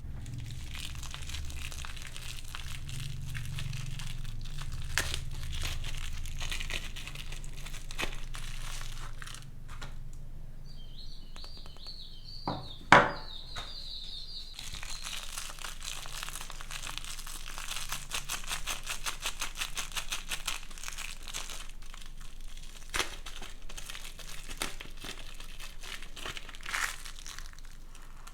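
Soap packaging being unwrapped by hand: wrapper crinkling and tearing throughout. A thin high squeal runs for a few seconds around the middle, with one sharp snap, the loudest sound, about thirteen seconds in.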